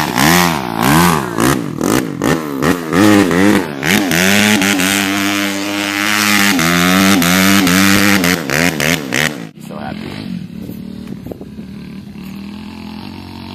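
Suzuki RM-Z four-stroke dirt bike engine being revved again and again, its pitch swinging up and down with quick throttle blips and held high for a couple of seconds in the middle. The revving drops away sharply about nine and a half seconds in, leaving a quieter steady running sound.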